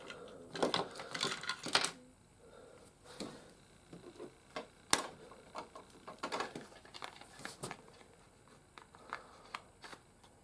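Light clicks and clatter of hard plastic as action figures are handled, in short clusters, with one sharper click about halfway through.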